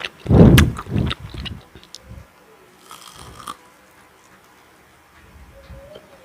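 Close-miked chewing of food, loud and wet in the first second and a half, then fading to quiet mouth movements with a brief faint rustle about three seconds in.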